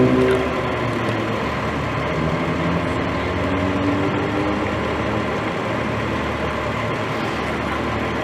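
Vehicle engine idling steadily. A rising engine tone fades out about half a second in.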